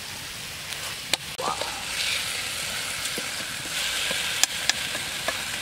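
Pork and arum (taro) curry sizzling in a metal wok as its liquid cooks off and the meat fries dry, with a steel ladle stirring and clinking against the pan a few times. The sizzle swells about two seconds in and again near the end.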